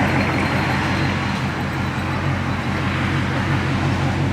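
Car engine idling steadily, a deep, even rumble.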